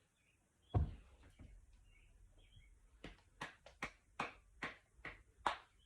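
Opening a cardboard snack box: a single knock about a second in, then a quick run of sharp clicks or snips, two or three a second, as the packaging is worked open.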